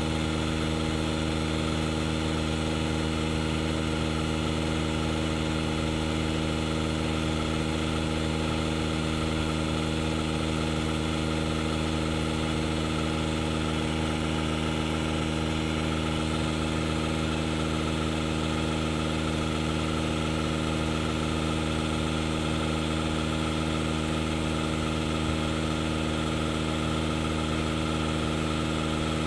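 DeWalt DCC020I cordless tire inflator running steadily under load while filling a flat car tire: an even, unchanging motor-and-piston drone.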